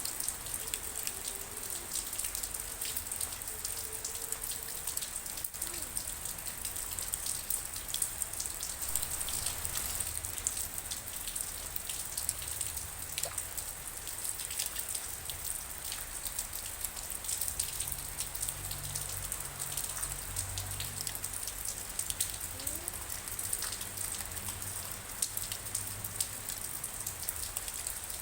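Steady rain falling, a constant hiss with many separate drops striking nearby.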